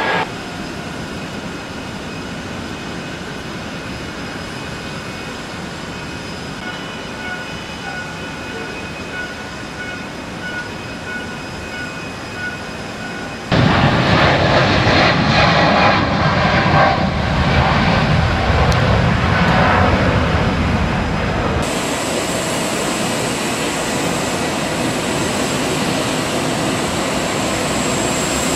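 Steady jet engine and airflow noise of a Korean Air Airbus A380. About halfway through it jumps suddenly louder and rougher for several seconds, then settles into a steady hiss with a thin high whine.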